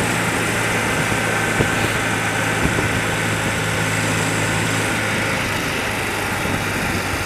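Old BMW motorcycle's engine running at a steady speed while riding, with no change in revs.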